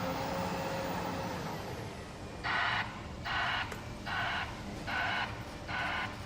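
Heavy machine's reversing alarm beeping about once every 0.8 seconds, starting about two and a half seconds in, over the steady running of a diesel engine.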